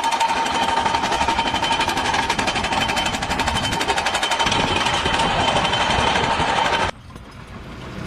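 Jackhammer-type machine hammering rapidly and continuously, with a steady whine running through it, then cutting off abruptly about seven seconds in.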